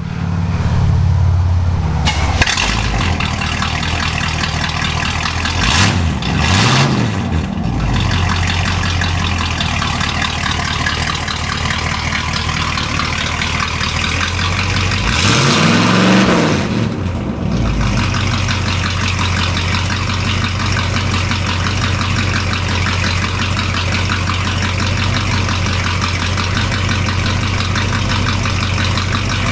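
Squarebody Chevy/GMC pickup engine running through freshly fitted dual straight pipes with no mufflers, loud. It starts at the very beginning and is revved up and back down twice, about six seconds in and again around fifteen seconds in, then settles into a steady idle.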